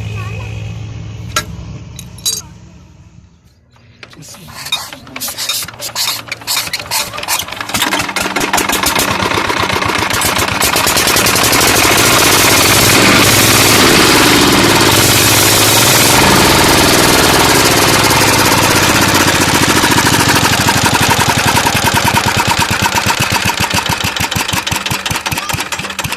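Tube-well diesel engine being started: after a few scattered knocks, its firing strokes begin about four seconds in, irregular at first, then quickening. By about ten seconds it is running at a loud, steady, even beat.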